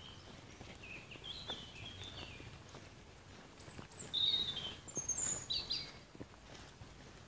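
A songbird singing short, quick chirping phrases, loudest about four to six seconds in, over faint footsteps on a dirt forest track.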